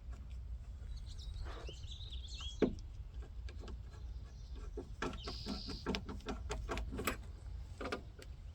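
Scattered clicks and taps of hand-tool work, with a sharp click about two and a half seconds in and a quick run of clicks near the end, over a steady low rumble. Birds chirp in the background.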